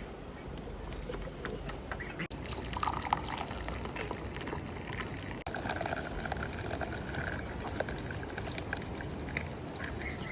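Water pouring or running steadily, with a few faint higher calls partway through.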